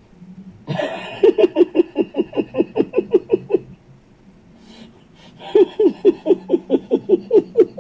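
A woman laughing hard in two long bouts of quick ha-ha-ha pulses, about six a second, with a short pause between them.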